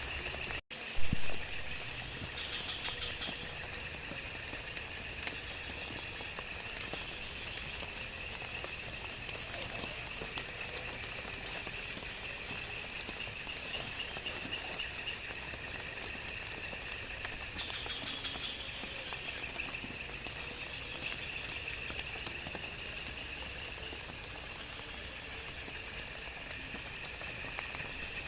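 Forest ambience of insects calling in a steady chorus of shrill tones, with scattered light clicks and patter. A short sharp knock about a second in.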